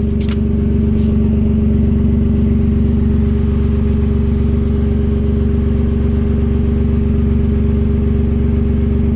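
Datsun LCGC car's engine idling steadily through an aftermarket racing exhaust, a loud even drone with no revving.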